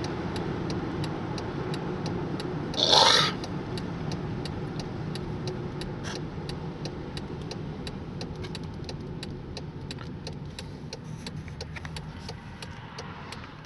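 Car running, heard from inside the cabin: a steady low hum with a steady, rapid ticking over it, and a brief hiss about three seconds in.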